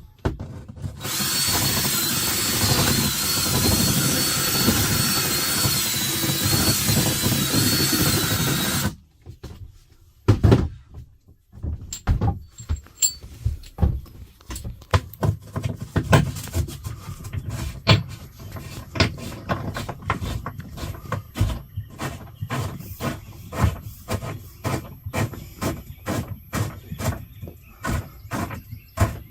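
A power drill runs steadily for about eight seconds with a wavering high motor whine, then stops suddenly. After a short pause comes a long run of small clicks and knocks from tools being worked by hand.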